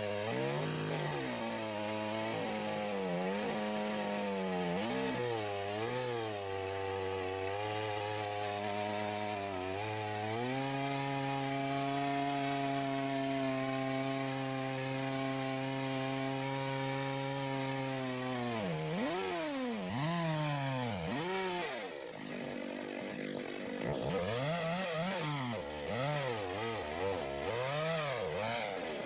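McCulloch 610 two-stroke chainsaw running under load while ripping a log in an Alaskan chainsaw mill. The engine speed sags and recovers repeatedly at first, then holds steady for several seconds, then swings deeply up and down in the last third. The saw is barely able to pull its 20-inch bar through a log this wide.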